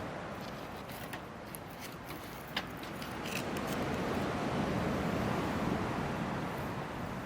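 Hardwood campfire burning in a small fire stand: a steady rush of flame with scattered crackles and pops, the sharpest about two and a half seconds in.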